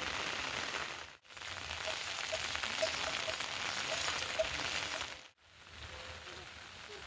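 Steady rain falling, an even hiss of drops. It cuts out abruptly twice, once about a second in and again near the end, and is quieter after the second break.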